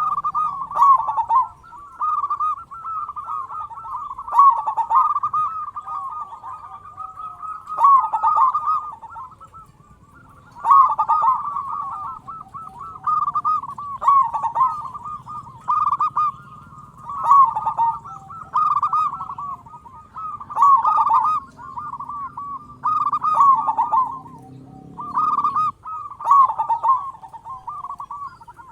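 Zebra dove (perkutut) singing: phrases of quick rolling coo notes repeating every couple of seconds, with a brief lull about ten seconds in.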